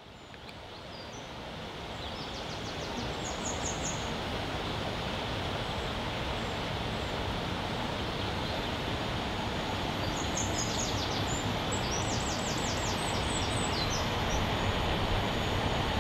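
Distant diesel freight train hauling aggregate hopper wagons, heard as a low rumble that grows slowly louder as it approaches. Small birds trill briefly about three seconds in and again around ten to thirteen seconds.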